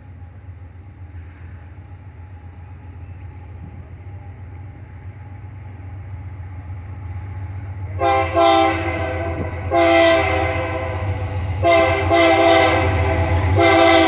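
Approaching GE AC44i diesel locomotives of an empty ore train: a low engine rumble grows steadily louder. About eight seconds in, the locomotive's air horn starts sounding a series of five or six blasts, some short and some longer, which become the loudest sound.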